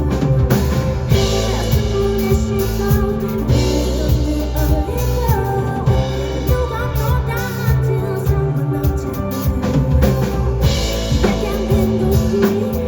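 A live band playing a song, with a drum kit (snare, bass drum and rimshots) driving the beat over bass and other instruments, and a singing voice in the mix.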